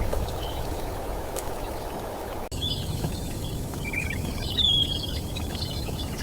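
A low rumbling noise cuts off abruptly about two and a half seconds in, and birds start chirping over a steady low background.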